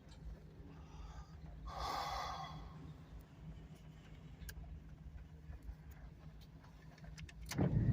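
Steady low engine hum at idle, with a breathy hiss lasting about a second, about two seconds in.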